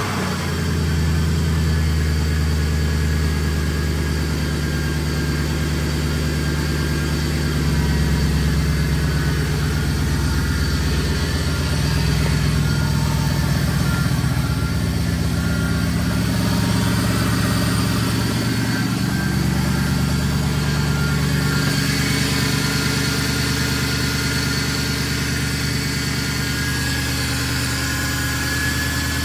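A rebuilt car engine idling just after being started. It runs steadily with no knocking or tapping, and its idle speed shifts slightly up and down.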